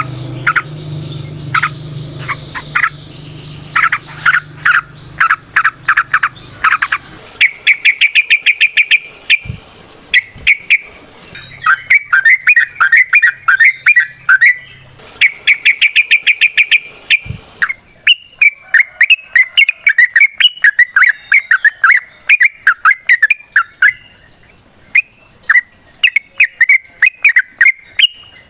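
Yellow-vented bulbul (trucukan) singing a long, rapid chattering song of short repeated notes, broken by very fast trills about a third and about halfway through. A low steady hum runs under the first few seconds.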